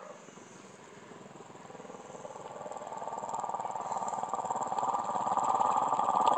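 English bulldog growling in annoyance at being woken: one long, continuous rumble with a fast flutter that grows steadily louder.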